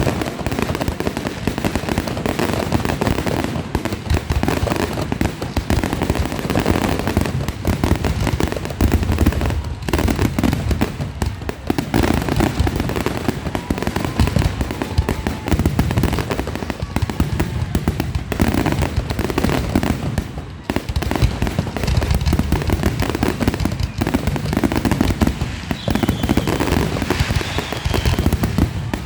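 Fireworks going off in a dense, continuous barrage: many bangs and crackles overlapping with no real pause.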